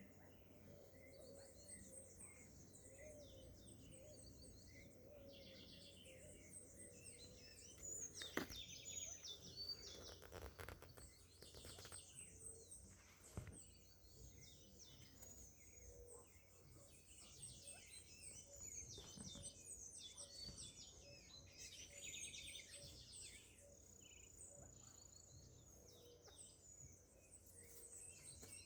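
Faint outdoor birdsong: many short, high chirps and twitters from small birds, repeated throughout. Two sharp knocks stand out, about a third of the way in and near the middle.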